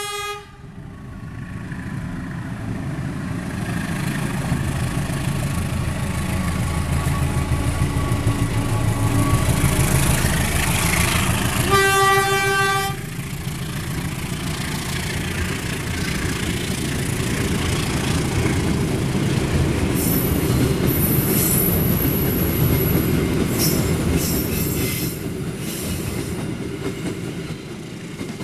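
Diesel locomotive hauling a passenger train past at speed, the engine and wheels rumbling steadily. Its horn sounds a short blast at the very start and one blast of about a second near the middle. Later comes high squealing and clicking from the wheels on the rails.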